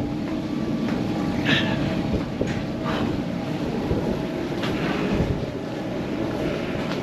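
Steady low machinery rumble with a faint hum running through it and a few brief higher squeaks.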